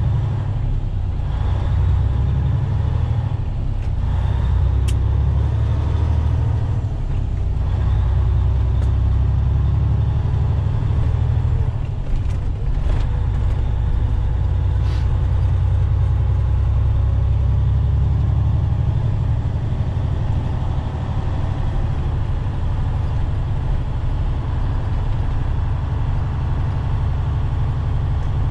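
Semi-truck's diesel engine running steadily, a deep, even rumble heard from inside the cab, with a few faint clicks.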